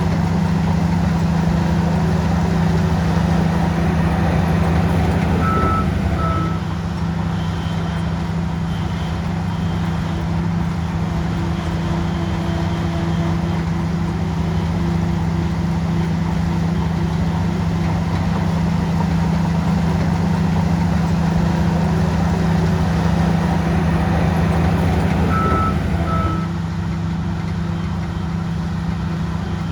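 Bulldozer's diesel engine running steadily under load. A short pair of beeps sounds about six seconds in and again near the end, each as the engine note drops a little.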